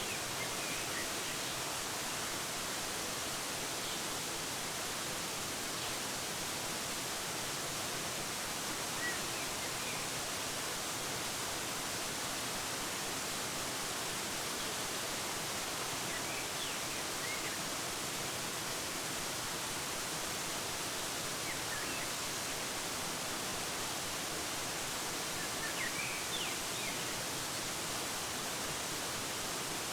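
Steady rushing of a waterfall, with faint, brief bird chirps now and then, a few of them close together near the end.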